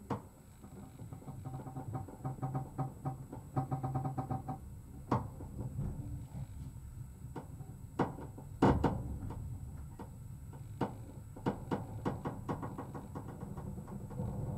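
Train carriage interior as the train pulls slowly away from a station: a low running hum that grows louder over the first few seconds, with scattered clicks and knocks from the carriage and one sharp knock a little past the middle.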